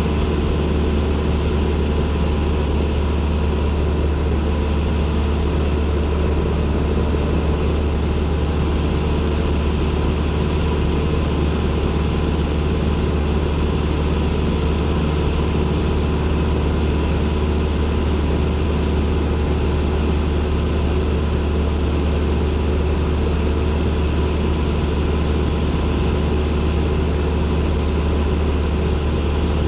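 Cessna 172N's four-cylinder Lycoming engine and propeller running steadily, heard from inside the cabin as an even, unchanging drone with a strong low hum.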